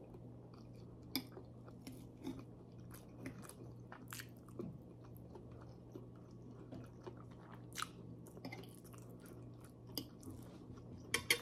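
Close-up chewing and mouth sounds of someone eating Filipino-style spaghetti, with scattered short clicks and a cluster of louder clicks near the end, over a steady low hum.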